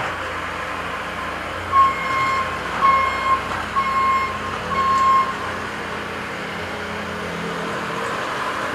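A reversing alarm on heavy construction equipment beeping four times, about once a second, over the steady running of machine engines.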